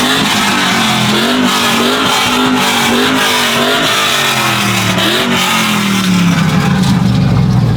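A vehicle engine revved in quick repeated blips, its pitch rising and falling about once a second. From about six seconds in it settles into a steadier, lower drone.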